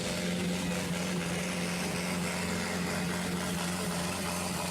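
A pulling tractor's engine running loudly at a steady, unchanging pitch, with a constant low hum under a broad noisy roar.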